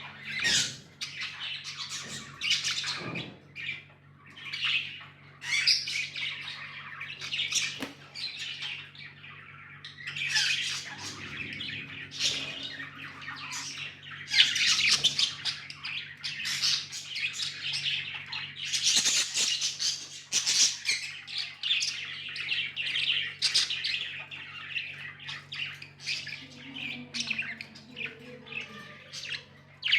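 Budgerigars chirping and chattering without pause, a dense run of short warbling calls.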